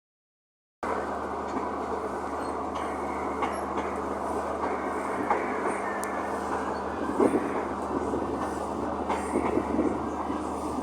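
Belgrano Sur line train running, heard from on board as it pulls out of the station: a steady rumble with scattered clacks of the wheels over the rail joints, a few louder ones from about seven seconds in.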